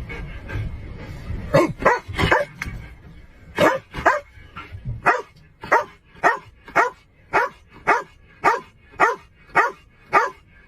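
A dog barking repeatedly: a few barks in pairs at first, then from about five seconds in a steady run of about two barks a second.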